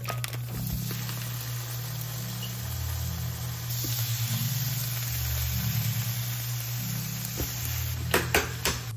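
Smoked duck slices sizzling as they fry in a nonstick frying pan and are stirred with a silicone spatula; the sizzle grows louder about four seconds in. Three sharp knocks come near the end.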